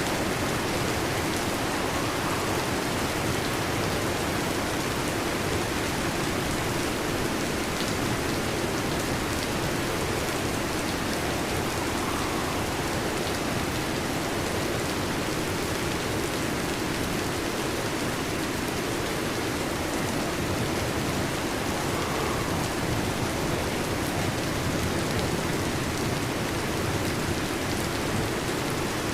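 Heavy rain falling steadily: an even, unbroken hiss of raindrops.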